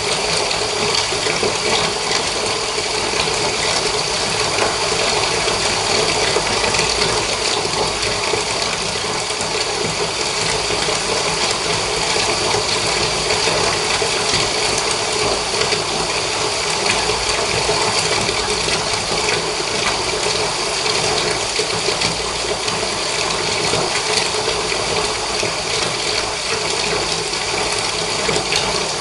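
Water running steadily from a tap into a bath.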